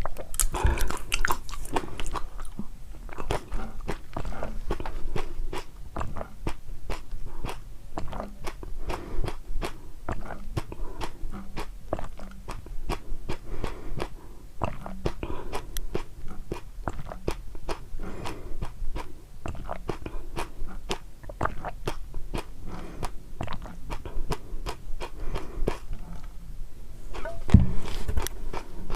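Close-up eating sounds: someone biting and chewing a crisp food, with dense crunches several times a second. A louder low thump comes near the end.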